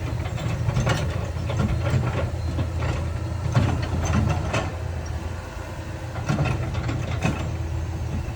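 Heavy diesel construction machinery running with a steady low drone, with scattered clanks and knocks over it.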